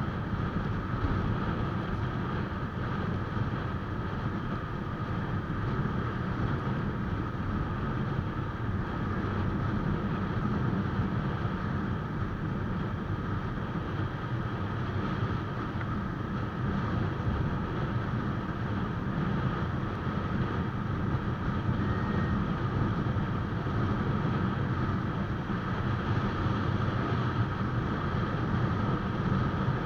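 Steady rush of wind and road noise from a motorcycle ridden at highway speed, with no break or change.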